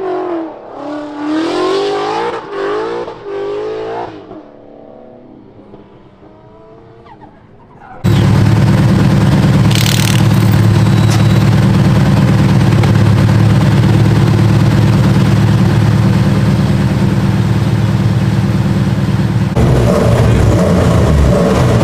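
S197 Mustang drift car's engine revving in several quick bursts that rise and fall in pitch, then fading to a quieter, falling note. About eight seconds in it turns abruptly to a loud, steady engine drone held at constant high revs, which changes tone shortly before the end.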